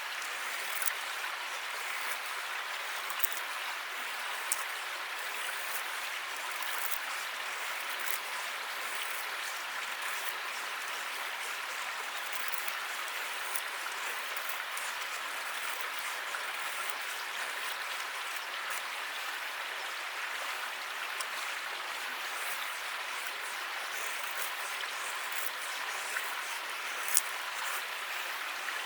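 Campfire crackling: a steady hiss of burning wood with scattered sharp pops, one louder pop near the end.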